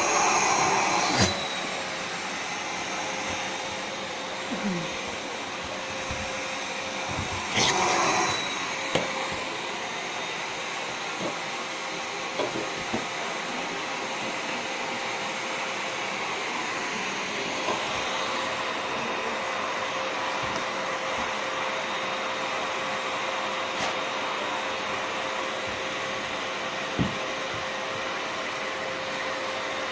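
Vacuum cleaner running steadily, with a few short knocks over the hum, the loudest about eight seconds in.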